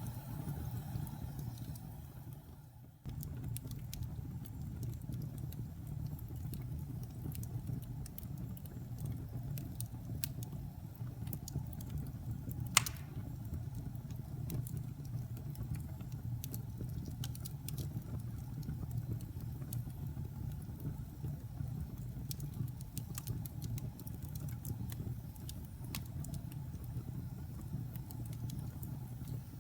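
Wood fire in a fireplace crackling over a steady low rumble, with scattered small pops and one sharp, loud pop about 13 seconds in. The sound fades briefly near 3 seconds in and cuts straight back in.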